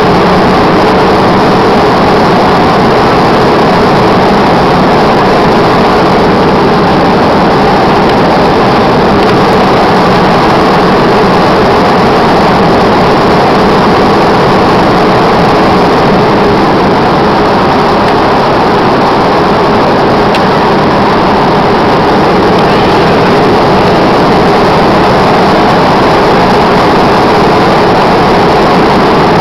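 Loud, steady engine and rushing-air noise heard inside an airplane cabin in flight.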